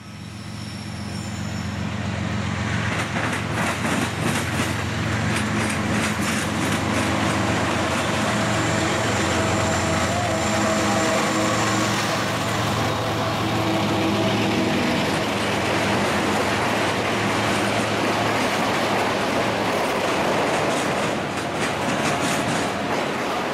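CSX diesel freight locomotive approaching and passing close by, its engine drone building over the first few seconds, then the steady rumble and clatter of autorack cars rolling past on the rails.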